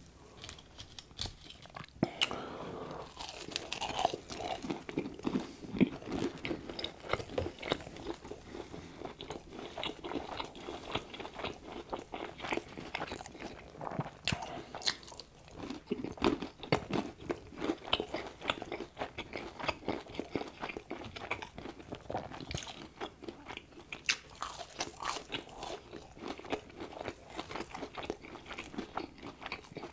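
Close-miked biting and chewing of crispy breaded fried chicken, nuggets and chicken fries, with dense irregular crunching crackles of the coating that start about two seconds in and keep going.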